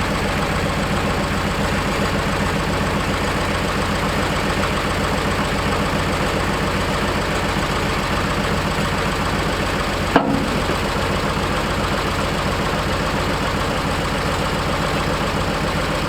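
Oliver tractor engine running steadily at a low, even speed while it works the front-end loader. There is a single sharp click about ten seconds in.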